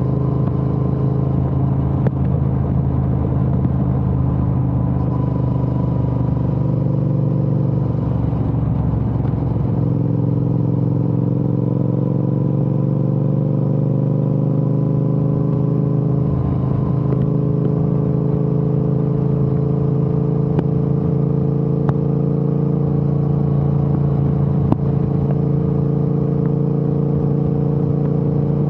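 Triumph Speed Twin 1200's parallel-twin engine through a Vance & Hines aftermarket exhaust, running steadily under way. The engine note dips about eight seconds in, then rises slowly as the bike gathers speed.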